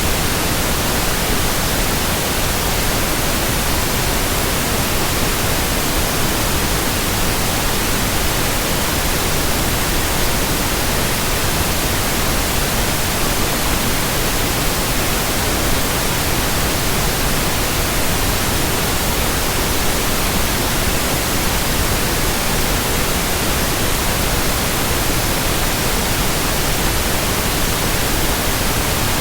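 Steady white noise: an even hiss across all pitches, unchanging in level, with no hum, swish or rhythm.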